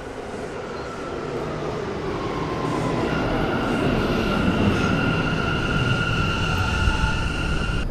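Subway train running on the rails, its rumble growing louder, with a steady high-pitched squeal that comes in about a second in and strengthens around three seconds in.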